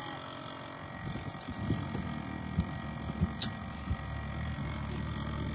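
Battery-powered portable air compressor running with a steady hum, inflating a tyre to force its bead back onto the rim, with a few short dull knocks.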